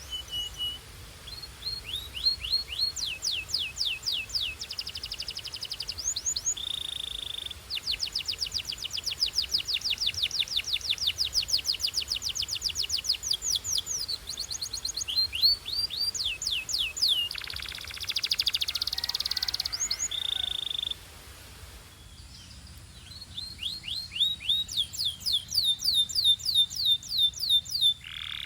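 A Belgian canary singing: fast trills of repeated downward-sweeping notes, about five a second, broken by short held whistles and a buzzy passage. There is a short pause about three quarters of the way through, and then the trills start again.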